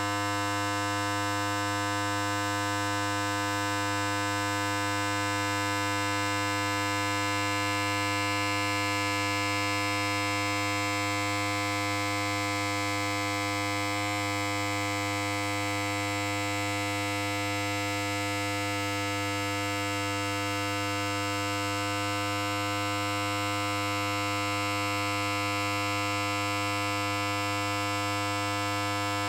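Electric hair clipper running: a steady buzz over a strong low hum.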